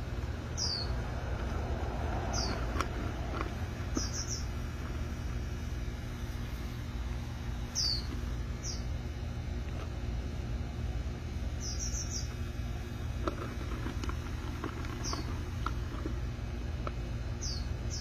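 Short, high bird chirps that slide downward in pitch, coming singly or in quick runs of three every second or two, over a steady low rumble.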